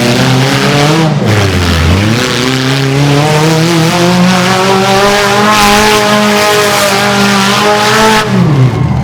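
Mini monster truck engine revving hard. Its pitch drops and climbs again about a second in, holds high for several seconds with a hiss of spinning tyres and dirt over it, then falls away near the end.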